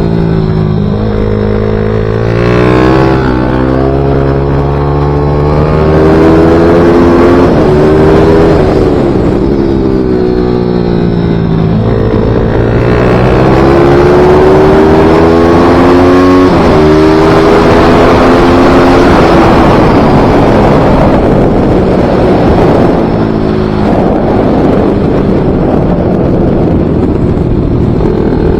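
Pit bike engine at racing speed on a track, revving hard: its pitch climbs under acceleration and falls away off the throttle, several times over, with no let-up in loudness.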